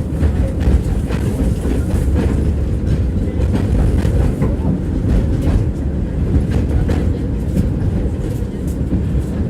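Tram running along its track, heard from inside the passenger car: a steady low rumble with irregular knocks and clicks of the wheels on the rails.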